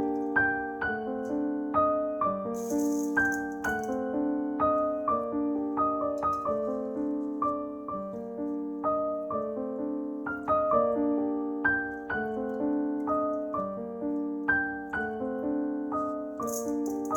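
Background piano music with evenly paced notes. A brief rattling noise comes twice, about three seconds in and again near the end.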